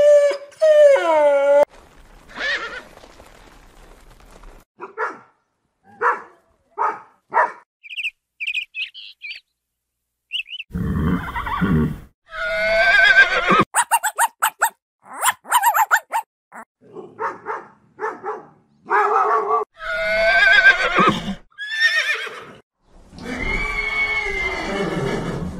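A run of animal sounds one after another: a cow's moo trailing off in the first second and a half, a few short dog sounds, then horses neighing several times.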